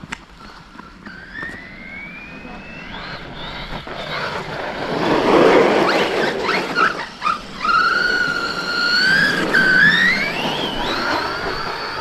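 Brushless electric motor of a large RC truck whining under throttle, its pitch rising and falling as it speeds up and slows, with a loud rough rush about halfway through.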